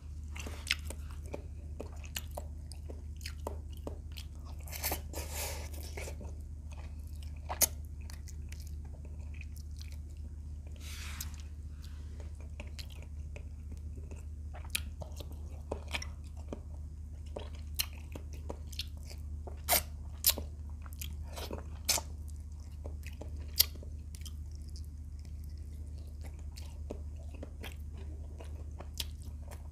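Close-up eating sounds of a man chewing fried tilapia and rice: irregular wet mouth clicks, smacks and occasional crunches, over a steady low hum.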